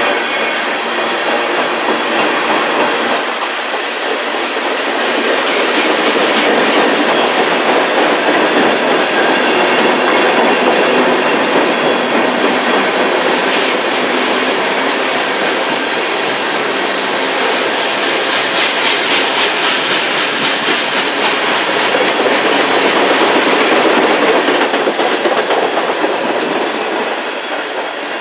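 Freight train of tank cars rolling past, a steady rumble of steel wheels on rail with repeated clicking as the wheels cross rail joints.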